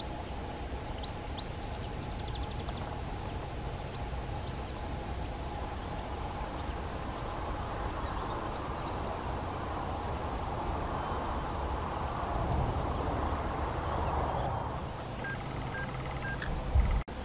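Lesser spotted woodpecker calling: short rapid series of high, thin notes, each about half a second long, heard four times over a steady outdoor hiss. A single sharp knock near the end.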